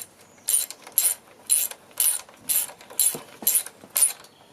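Socket ratchet wrench doing up a bolt, its pawl clicking in short runs at about two strokes a second.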